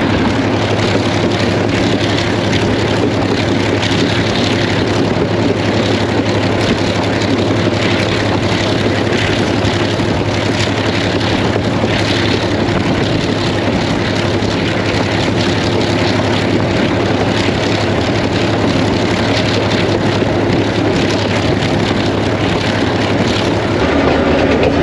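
Passenger train running at speed, heard from on board: a steady loud rush of wheel and wind noise over a low steady engine hum.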